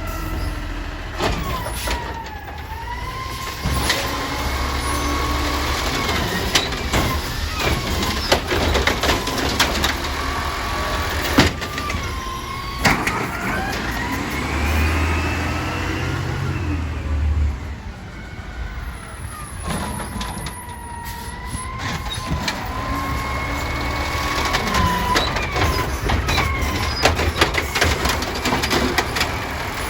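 Garbage truck at work: its hydraulic system whines, the pitch sliding up and down, while the engine revs in repeated surges about every ten seconds, with frequent sharp clanks and bangs from the lifting and dumping gear.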